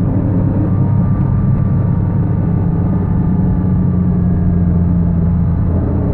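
2004 Porsche Boxster S under acceleration: engine and drivetrain running with a steady low, hollow-sounding drone from the transmission that drops away near the end. The noise comes only on the throttle and is the sign of a failing transmission bearing.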